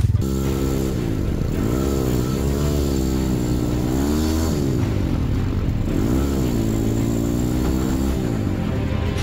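Enduro motorcycle engine running under way, its revs rising and falling over and over.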